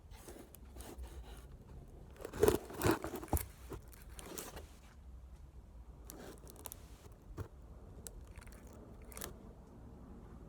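Handling noise: irregular scraping and clicking, with three sharp knocks about two and a half to three and a half seconds in.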